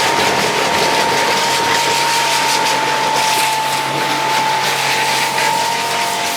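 Portable electric pressure washer running with its trigger held, a steady motor whine over the hiss of the water jet spraying the car.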